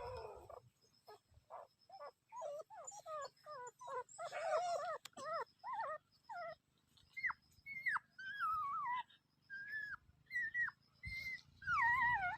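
A dog whining in a long run of short, high-pitched whimpers, about two a second, the later cries higher and more drawn out.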